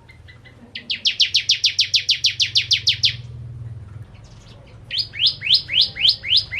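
A prinia (prenjak / ciblek) singing in fast, rapid-fire runs of high, upward-sweeping chirps: about seven a second for a couple of seconds, then after a short pause a slower run of the same chirps near the end.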